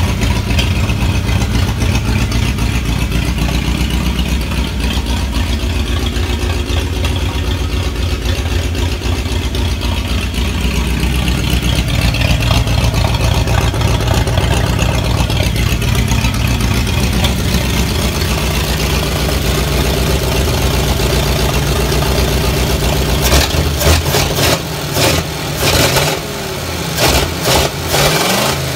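Ford flathead (side-valve) V8 engine running at a steady idle. Near the end the sound turns choppy, with a run of sharp pops and brief drop-outs.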